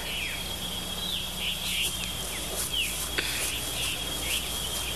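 Small birds chirping over and over, short sliding calls, over a faint steady high tone; a single sharp click a little after three seconds in.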